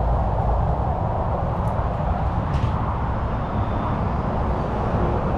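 Steady roar of freeway traffic, heaviest in the low rumble.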